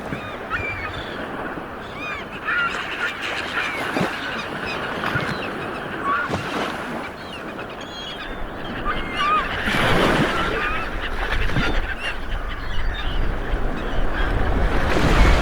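Sea waves washing onto a shore, with a flock of birds giving many short calls over the surf. The surf swells louder about two-thirds of the way through and again at the end.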